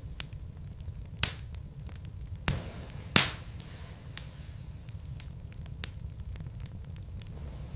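Wood fire crackling in a fireplace: a steady low rumble of the flames with scattered sharp pops, the loudest three between about one and three seconds in.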